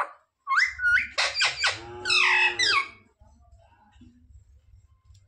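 Pet parrot calling: a quick run of high, whistled chirps with sliding pitch over the first three seconds, then only faint sounds over a low hum.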